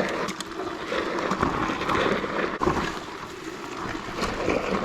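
Rushing wind noise on the microphone with scattered knocks and rustles, as from a camera on the move along a brushy trail.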